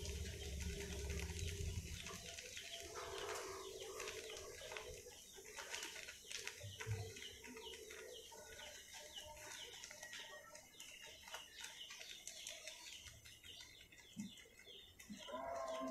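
Faint bird calls: chickens clucking and small birds chirping rapidly and repeatedly.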